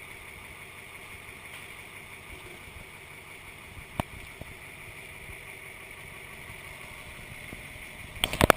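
Garbage truck engine running steadily, with a sharp click about four seconds in and a few loud knocks near the end.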